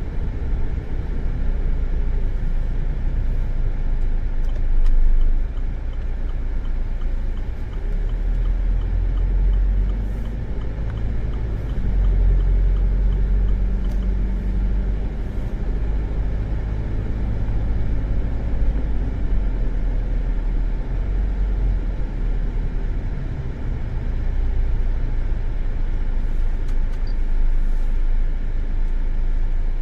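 Steady low rumble of a car heard from inside the cabin: the car's engine and road noise, with no distinct events standing out.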